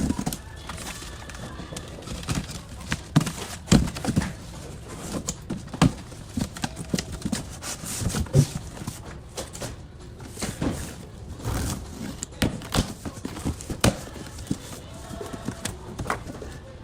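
Irregular knocks and thumps of stock being handled while boxes of soccer balls are unpacked, a few of them heavier low thuds.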